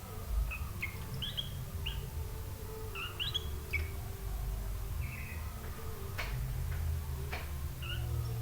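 Pet sooty-headed bulbul (kutilang) giving short chirping call notes in scattered clusters. Two sharp clicks come about six and seven seconds in, over a low steady hum.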